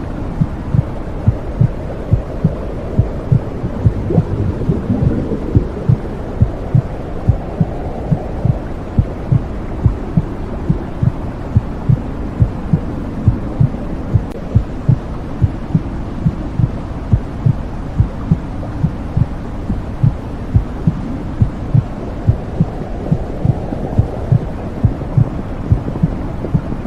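Womb sound: a muffled heartbeat, low thumps at an even pace, over a steady low whooshing hum that slowly swells and ebbs, as heard from inside the uterus.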